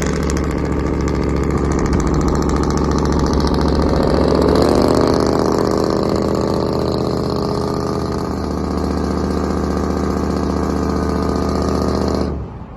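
Truck engine running at a steady, even speed, coming up slightly in pitch about a third of the way in and then settling back; the sound cuts off abruptly near the end.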